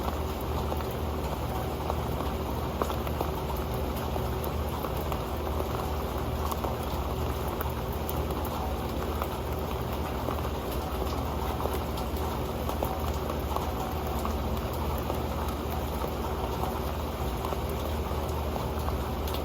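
Steady rain falling on an old pan, a dense patter of drops with many small ticks landing on the metal.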